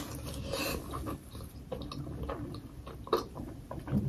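Close-miked chewing of a momo dumpling topped with tomato achar: soft wet mouth noises and small clicks, with one sharper click about three seconds in.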